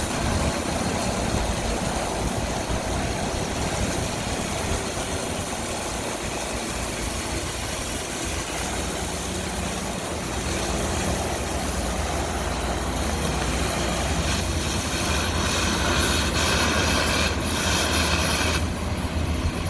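Steady machinery noise: a continuous hiss with a low hum that grows stronger about halfway through, and a harsher, scratchier edge with a few sharp strokes near the end.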